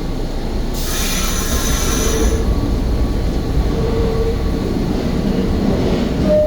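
NYC subway R46 car running, with a steady rumble of wheels on rail. About a second in, the wheels give a brief high-pitched squeal lasting under two seconds.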